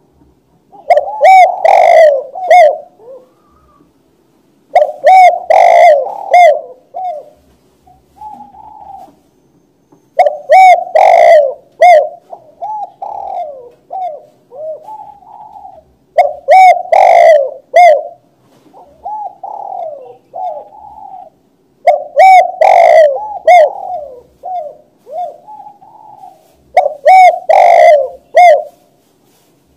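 Spotted dove (tekukur, balam) cooing: six loud phrases of several coos each, about every five to six seconds.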